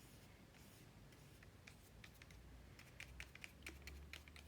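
Faint light clicks and taps of a water brush and craft tools being handled on the work surface, a quick scatter of them in the second half.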